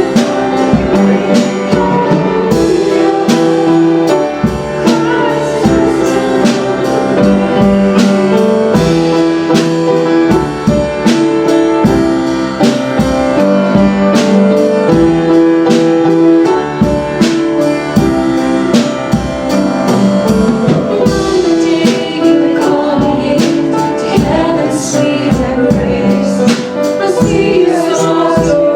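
Live worship band playing a gospel-style praise song with singing, guitar and a steady beat of drums and tambourine.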